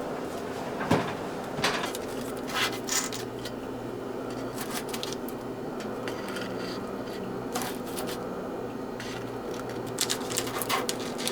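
Scattered clicks, taps and light knocks of kitchen items being handled, over a steady low hum. The sharpest knock is about a second in, with a quick cluster near the end.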